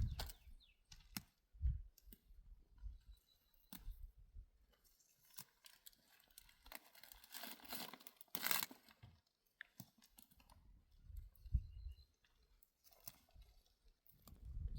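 Scattered rustling, crackling and tearing sounds with occasional sharp clicks, and a louder rustle about eight and a half seconds in.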